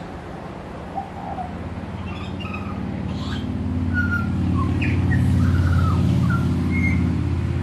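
Birds chirping in short, scattered notes over a low engine drone that swells to its loudest about midway and then eases off, like a passing vehicle.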